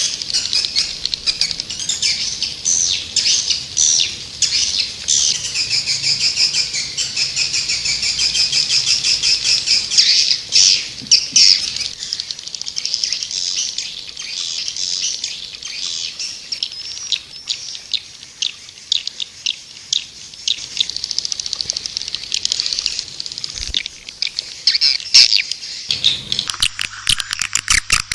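Swiftlets twittering: a dense, continuous stream of rapid high chirps and trills, the kind of recorded swiftlet call played to lure swiftlets to a nesting house. About two seconds before the end the sound changes abruptly, with a low hum coming in under the chirps.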